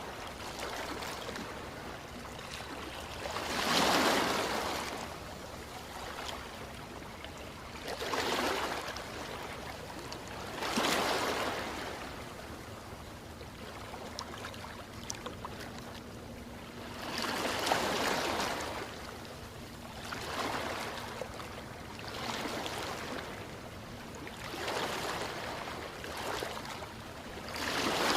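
Ocean waves breaking and washing on a shore. A steady wash of surf swells into a louder break every few seconds, about seven times.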